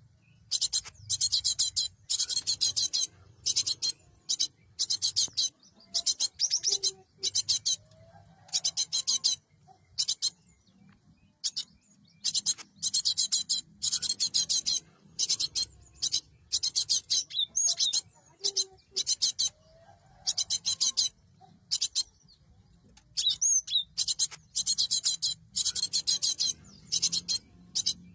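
Cinereous tit (gelatik batu) calling: bursts of rapid, high, chattering notes, repeated over and over with short gaps.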